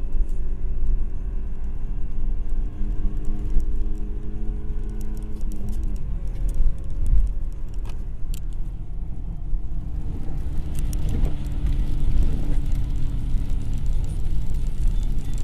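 Audi 80 B4's 2.0-litre ABK four-cylinder engine, running on LPG, pulling hard under acceleration. Its pitch climbs slowly through a gear, falls at the upshifts about six seconds in and again near the end, then climbs once more, over a heavy low rumble.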